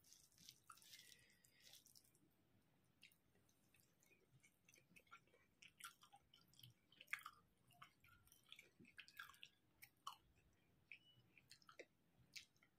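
Faint, close-miked chewing of a mouthful of rice and curry, with irregular short wet clicks and lip smacks.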